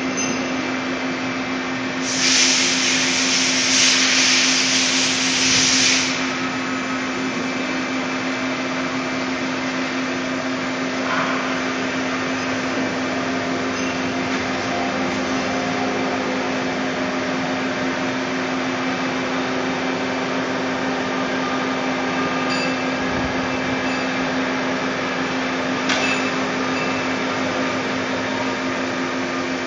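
Steady running noise of a Puma 350 CNC lathe, a constant hum under a broad machine rush. A loud hiss comes in about two seconds in and lasts about four seconds.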